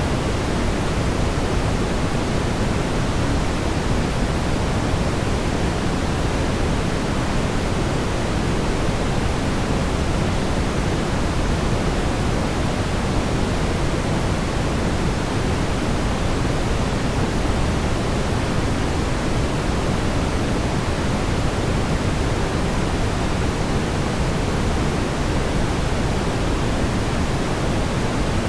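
Steady brown noise: an even, unchanging rush of noise weighted toward the low end, a deep rumble with the highs rolled off.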